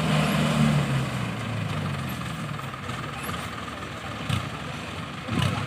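Diesel tractor engine running, loudest in the first second and then settling to a steady run, with two short knocks about four and five and a half seconds in.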